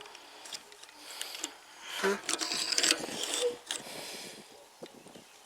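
Small clicks, scrapes and rattles of a toy truck's plastic removable sign and die-cast parts being handled and fitted, coming in irregular clusters.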